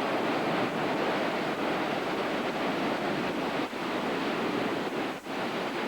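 Heavy storm surf crashing and wind buffeting the microphone, a steady roar with a couple of brief dips, as hurricane waves pound the shore.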